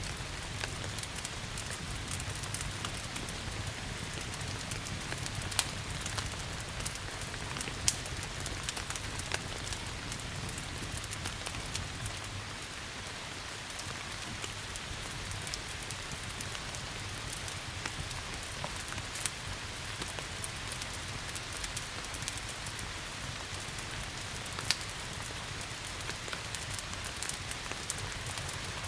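Steady rain hiss mixed with a wood fire crackling, with scattered small clicks and a few sharper pops.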